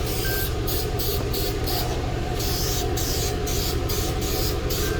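Paint spraying in quick short bursts of hiss as candy coat goes onto the car body, over a steady low hum from a running fan.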